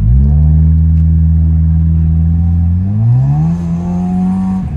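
Honda Civic's engine through its aftermarket Spec D exhaust, loud and held at a steady pitch, then revving smoothly up to a higher pitch about three seconds in and holding there before cutting off abruptly.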